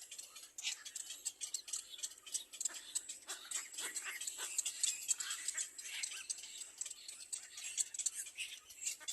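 Baby birds calling in a dense, rapid run of short high chirps and clicks.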